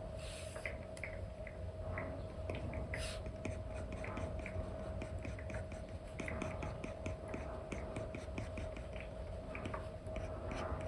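Apple Pencil with a replacement nib tapping and stroking across an iPad's paper-like matte screen protector: many small ticks, with short scratchy strokes at the start and about three seconds in. A faint steady hum runs underneath.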